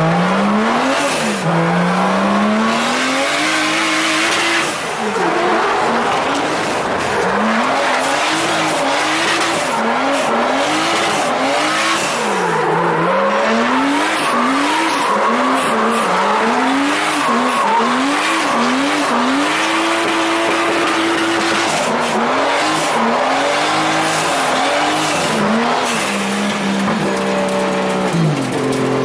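Drift car engine revving up and down over and over as the throttle is worked through a slide, with tyre squeal underneath. The pitch climbs and drops about once a second and is held high for a couple of seconds midway.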